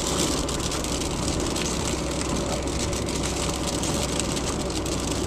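Rain hitting the roof and windshield of a moving car, heard inside the cabin as a steady patter of many fine ticks over constant road and engine noise.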